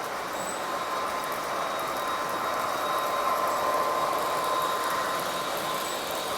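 Model train running along the layout's track: a steady rumble of wheels on rail with a thin motor whine, growing a little louder around the middle as it passes close, then easing off.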